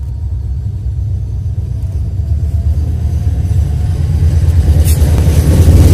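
Diesel locomotive hauling a passenger train approaching along the track: a deep, steady rumble that grows louder as it nears.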